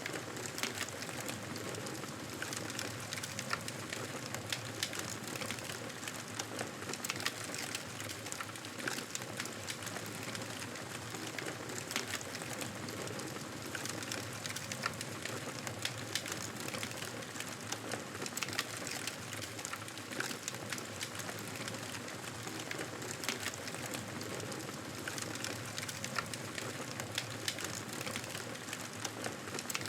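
Wood fire crackling steadily, with a constant hiss and many small sharp pops and snaps scattered throughout.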